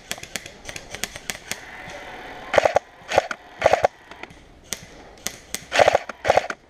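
Airsoft guns firing in sharp, scattered clicks, with a pause in the middle. Short crunching footsteps about half a second apart come in a few seconds in and again near the end.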